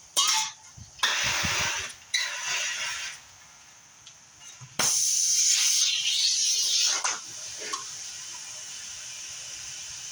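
Aerosol can of starting fluid spraying in three short bursts, then one longer spray of about two seconds, filling the gap between the tire bead and the rim before it is lit.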